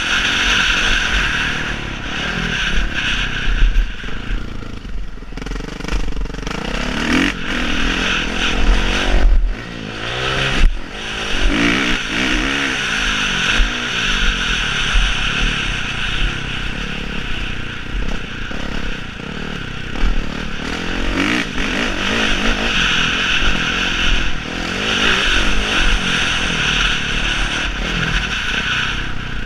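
Motocross dirt bike engine running hard, its pitch rising and falling as the throttle opens and closes, with a few brief drops where it backs off.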